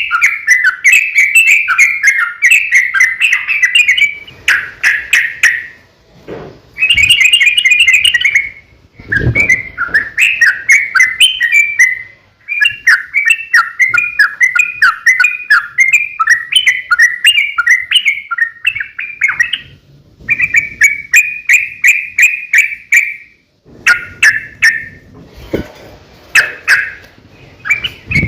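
Yellow-vented bulbul (trucukan) singing a long, rapid chattering song, delivered in phrases of a few seconds with short breaks between them.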